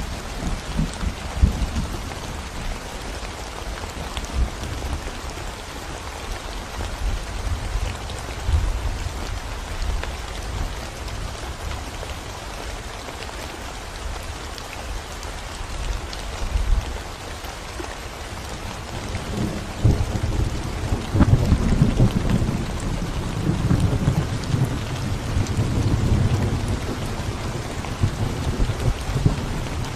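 Steady rain falling on a concrete road and the plants around it, an even hiss throughout. Under it there is a low rumbling that swells about two-thirds of the way through, then eases.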